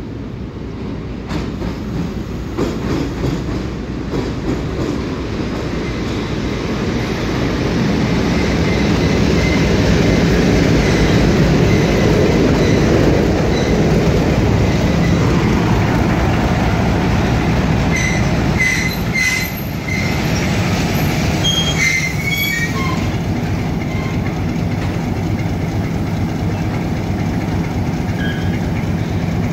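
Diesel-hauled passenger train running into a station: a rumble that grows louder over the first ten seconds as the locomotive and coaches roll past on the rails. Then comes a run of short high squeals, typical of brakes and wheels as the train slows to a stop, under the steady running of the locomotive's diesel engine.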